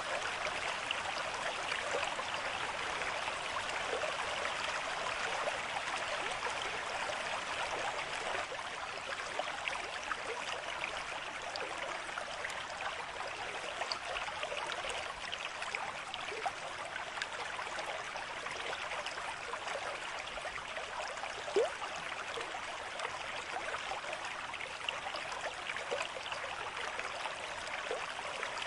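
A small stream of water babbling and trickling steadily, full of small quick splashes, with one brief louder splash about three-quarters of the way through.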